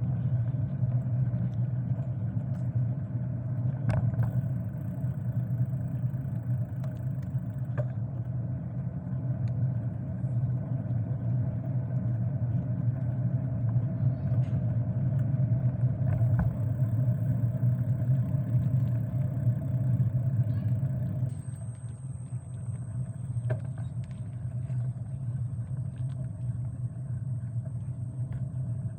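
Steady low rumble of wind and road noise while riding a bicycle along the road, with a thin high whine that comes and goes and a slight drop in loudness about two-thirds of the way through.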